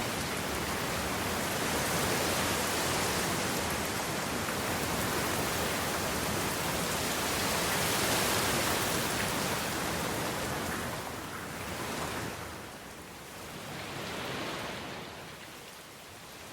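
A steady rushing noise with no music or tones, swelling twice and fading away near the end.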